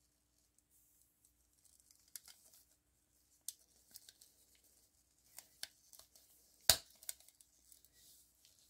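Light scraping and small clicks of hand work on a model car's small parts, with one sharp click about two-thirds of the way through.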